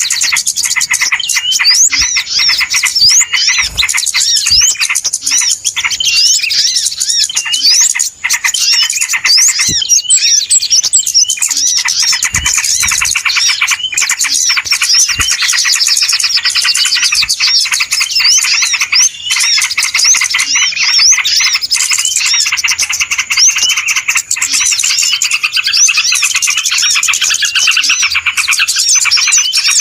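A dense, noisy chorus of many small birds chirping and twittering over one another without a pause, used as a lure recording to draw wild birds in.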